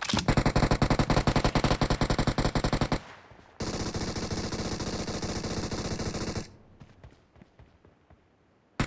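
Automatic gunfire in a first-person shooter game: a rapid burst of about a dozen shots a second lasting about three seconds, then after a short pause a second, denser burst of about three seconds. It falls to near quiet with a few faint clicks for the last couple of seconds.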